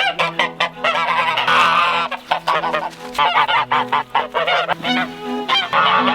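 Domestic geese honking loudly, with many rapid calls overlapping throughout.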